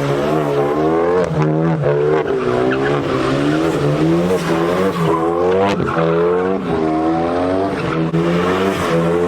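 A car spinning donuts: its engine revs up and down in quick repeated surges, about twice a second, over the steady hiss of screeching tyres.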